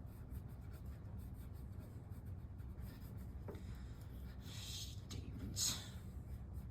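Writing on paper: light scratching strokes, a little louder about four and a half to six seconds in, over a low room hum.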